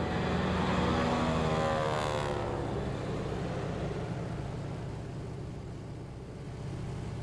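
Engine running with a steady low hum, its pitch falling over the first couple of seconds as it passes by.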